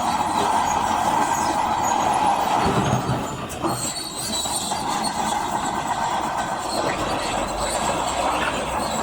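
Crawler bulldozer working: its diesel engine runs under load while the steel tracks clank and squeal.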